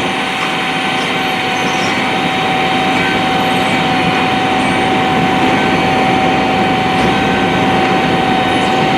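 Vehicle engine running steadily, with a constant whine over the engine noise.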